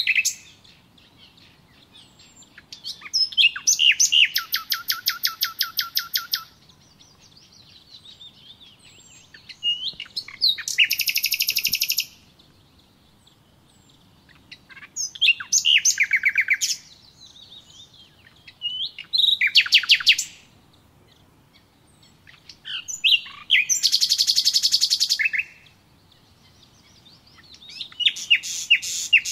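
A songbird singing in repeated phrases of rapid trills, each phrase lasting one to three seconds, with pauses of a few seconds between them.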